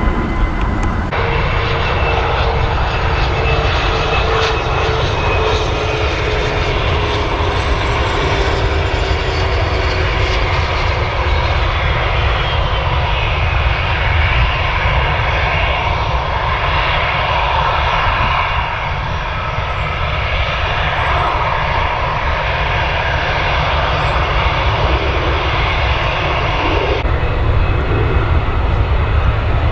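Jet airliner's engines passing close by: a loud, steady rush of engine noise, with a whine that slides slowly down in pitch over the first ten seconds or so.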